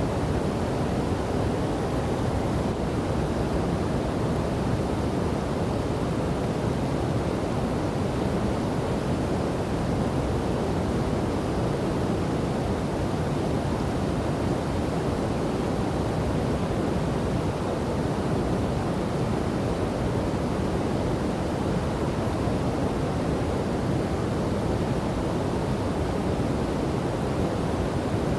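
Falling and flowing water of a river and waterfall, a steady, deep rush with no breaks or separate events.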